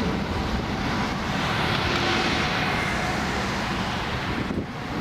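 Jet airliner on landing approach passing overhead: engine noise with a faint whine, swelling to a peak about two seconds in, then easing off. Wind buffets the microphone.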